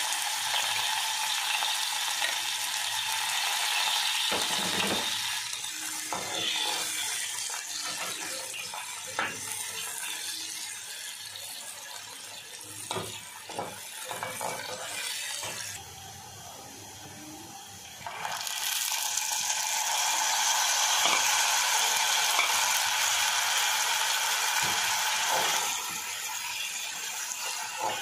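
Onions sizzling as they fry in hot oil in an aluminium pressure cooker, with a spatula scraping and clicking against the pot as they are stirred. The sizzle drops low for about two seconds a little past halfway, then comes back loud.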